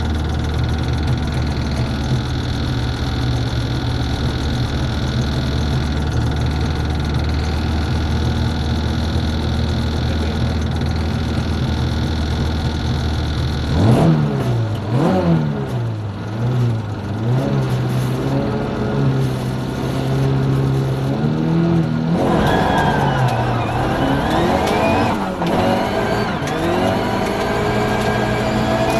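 Rally car engine heard from inside the cabin, running steadily while the car is stationary at the stage start. About halfway through the car launches and accelerates hard through the gears, the revs rising and dropping with each shift.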